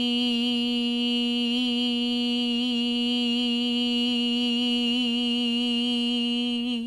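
A single voice chanting a long, steady "eee" vowel as a pranayama sound-breathing practice, held on one pitch with a slight waver, then cutting off near the end.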